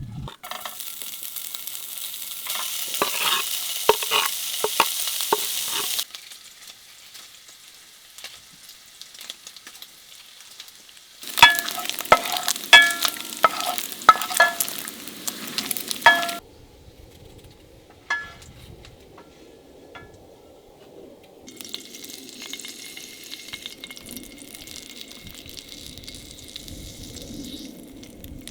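Food sizzling in a frying pan while a metal utensil stirs it, clinking against the pan now and then. The sizzle comes in short, abruptly cut stretches: loud through the first six seconds and again from about 11 to 16 seconds in, softer near the end.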